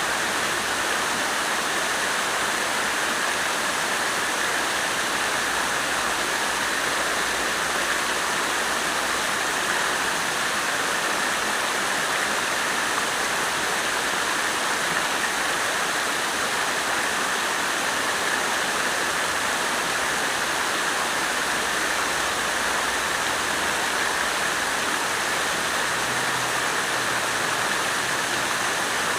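Water fountain splashing steadily: an even, unbroken rush of falling water.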